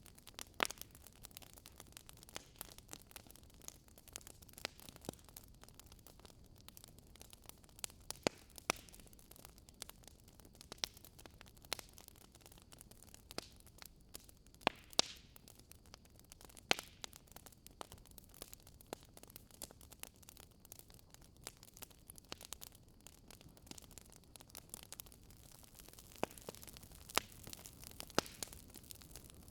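Wood fire burning in a fireplace: irregular crackling, with sharp pops of the burning logs scattered over a low steady hiss, a few much louder than the rest.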